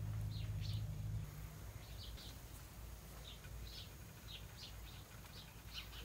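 A small bird's short high chirps, singly and in pairs, every half second or so, over a low steady hum that stops about a second in.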